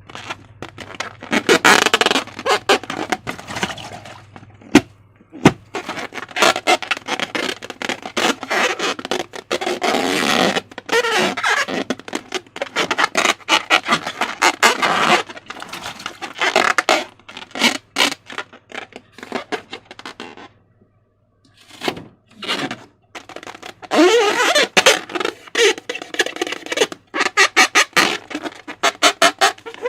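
Slime being squished and worked by hand: runs of wet crackling clicks in bursts, with a brief pause about 21 seconds in.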